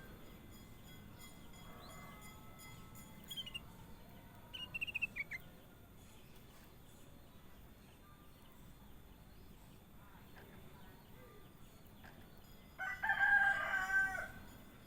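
A few short, falling bird chirps, then near the end a rooster crowing once, the loudest sound.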